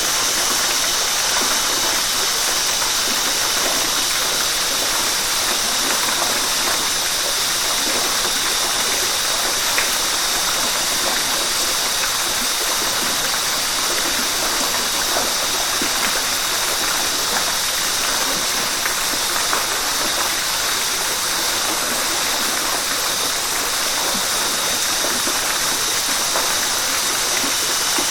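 River water running steadily, a continuous rush with small splashes here and there.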